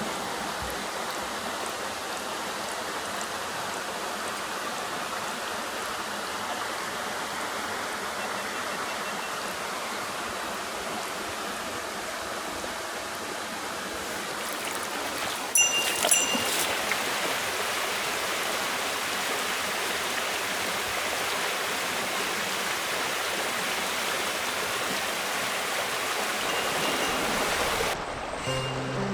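Mountain stream water rushing steadily, with a few brief sharp knocks about halfway through.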